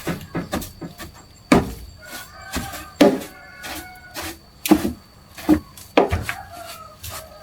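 A string of sharp knocks and clanks, irregular at roughly two a second, the loudest about every one and a half seconds, some leaving a short ring.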